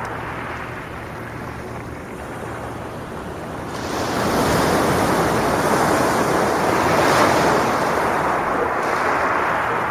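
Sea waves on a beach: a low wash for the first few seconds, then about four seconds in a wave breaks and washes up with a louder, hissing rush that eases near the end.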